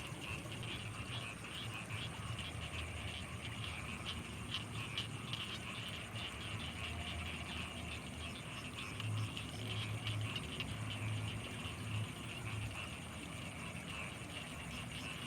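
Night chorus of frogs and insects over rice fields: a dense, steady trilling with a thin high continuous whine above it. A low rumble swells in a few pulses about nine to twelve seconds in.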